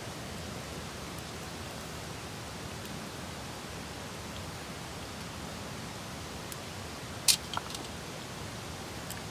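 A steady hiss of background noise, with a sharp click about seven seconds in, two fainter ticks just after, and another sharp click near the end.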